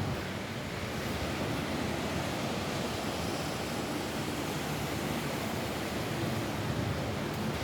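Steady rain falling on a roof: an even, unbroken hiss with no separate drops or thunder standing out.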